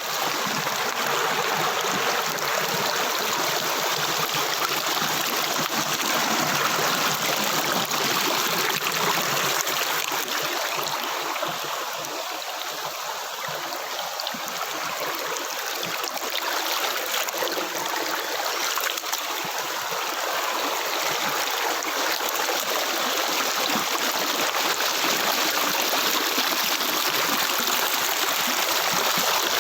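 River water flowing: a steady rush of running water, easing slightly about halfway through and building again.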